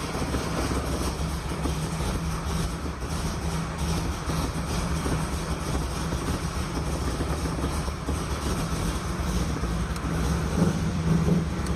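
Cold E85-fuelled engine with an LT4-type cam idling steadily at about 600 rpm, barely idling just after a cold start, heard from inside the car.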